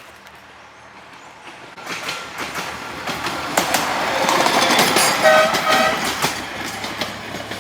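A train passing on the railway line: the wheels clatter and the noise swells to a peak and then fades. The horn gives two short toots about five seconds in.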